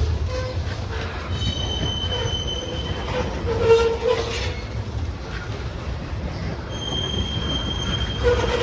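Freight train cars rolling past with a steady low rumble of wheels on rail. High-pitched wheel squeal rings out twice, each for a second or two.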